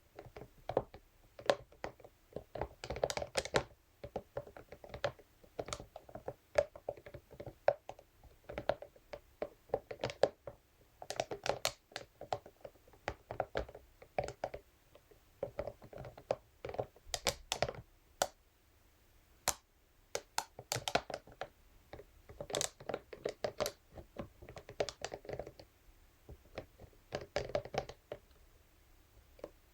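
Scalp massage brush tapped and scratched against a surface, making quick, irregular runs of sharp clicks and taps. The runs come in bursts of a second or two, with short pauses between them.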